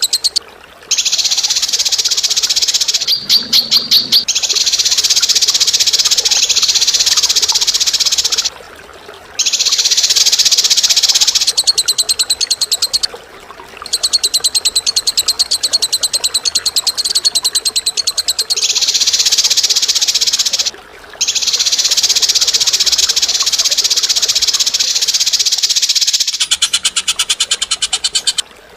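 A caged songbird's rapid, buzzy chattering trill, delivered in long unbroken phrases of several seconds with short pauses between them.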